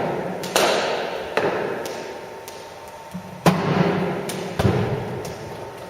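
Cricket ball impacts during batting practice: a series of sharp knocks and thuds, bat striking ball and ball hitting surfaces. There are about four loud ones and several softer ones, each followed by an echo.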